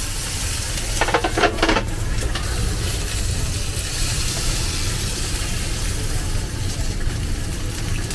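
Gyoza steam-frying on a hot-plate griddle, sizzling steadily in the water just poured over them, over a steady low hum. About a second in comes a brief rattling clatter.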